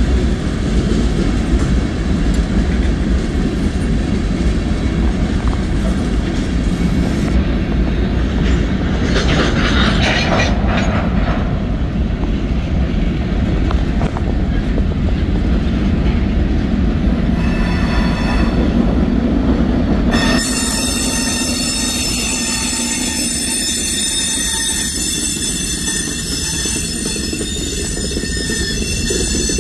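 Freight cars of a CSX manifest train, tank cars and covered hoppers, rolling past with a steady rumble of steel wheels on rail. About twenty seconds in, a high-pitched squeal made of many ringing tones rises over the rumble and keeps going.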